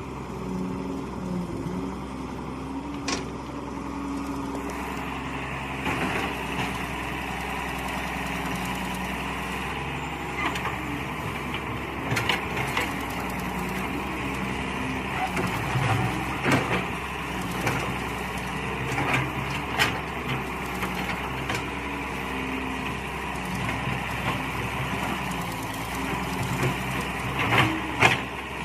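Mini excavator running while digging: a steady engine note, with a higher hiss that joins about five seconds in and stays, and scattered short knocks, the loudest near the end.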